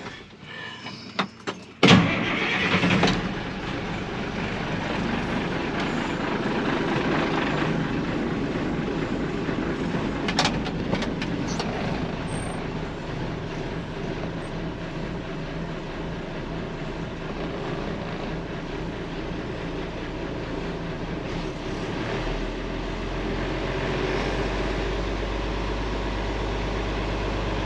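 International DT466 diesel engine in a 1986 dump truck started about two seconds in, after a few clicks, then running steadily: the first start after fitting a replacement air compressor.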